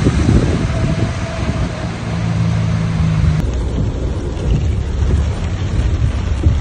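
Heavy rain and floodwater rushing along a street, with wind buffeting the phone's microphone. About halfway through it cuts to heavy rain heard from inside a car, with the car's running noise underneath.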